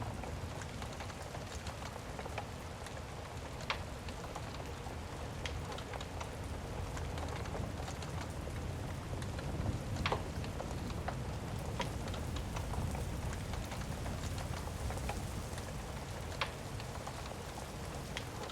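Steady heavy rain with a low rumble underneath, and sharp crackles from a wood fire popping every second or two.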